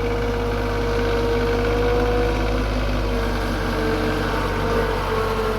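Tractor engine running steadily while plowing snow, with a steady low hum and a thin whine that drifts slightly in pitch.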